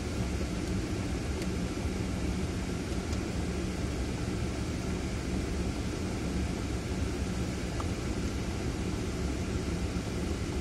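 Ford Fiesta's engine idling steadily while the car stands still, heard from inside the cabin as a low, even hum.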